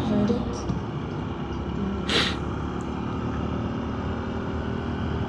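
Honda motorcycle engine running steadily at a low, even speed, with a short hiss about two seconds in.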